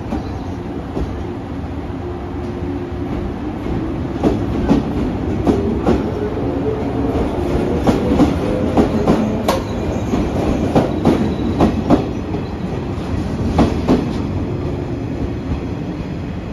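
JR West 115-series electric multiple unit pulling out of a station. Its wheels clack over rail joints and points in a run of sharp, uneven knocks from about four seconds in, thinning out near the end, over the steady running noise of the train.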